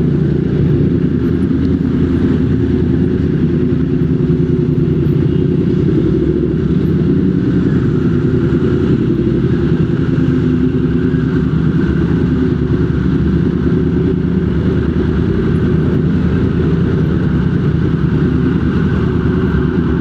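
Motorcycle engine running at a steady, even speed in slow traffic, with no revving.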